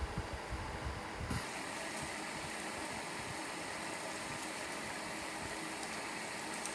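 Restored antique electric fan running: a steady whir of motor and moving air. About a second in the sound changes abruptly from a low rumble to an even hiss.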